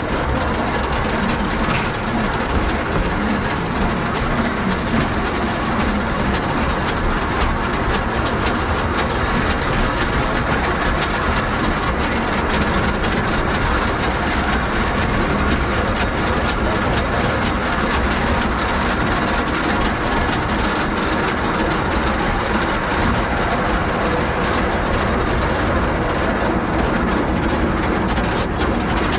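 Narrow-gauge forest railway train running steadily, heard from aboard a carriage: a continuous rumble of wheels on rails with a rattling clatter over the track.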